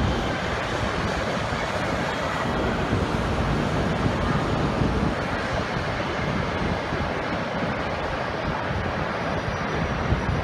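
Shinkansen train moving along the station platform: a steady rushing rumble.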